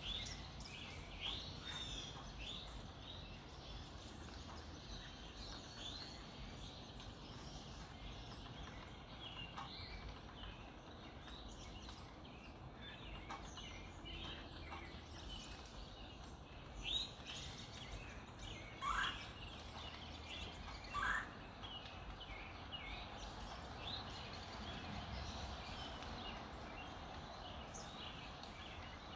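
Early-morning chorus of several songbirds, many short chirps and trills overlapping over a steady background hiss. About two-thirds of the way through, two louder, lower notes slide upward, one after the other, with a sharp click shortly before them.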